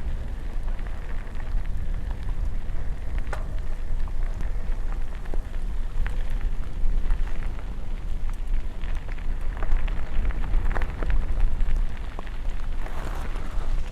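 Rain falling, with scattered raindrop taps and a steady low rumble underneath.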